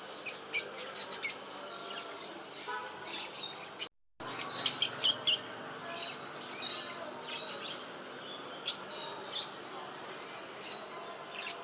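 Small cage birds chirping: quick runs of short, high chirps, densest near the start and again about four to five seconds in, with scattered chirps after.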